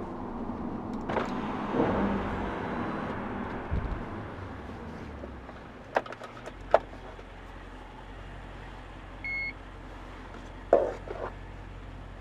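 Audi RS5's 4.2-litre V8 running at low revs through a Capristo exhaust, with a brief swell about two seconds in. Midway come a couple of sharp clicks, then a short electronic beep, then more clicks near the end.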